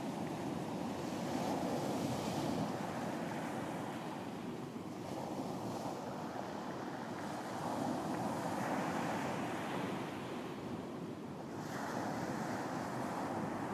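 Ocean waves breaking and washing on a beach, the surf swelling and easing every few seconds, with some wind.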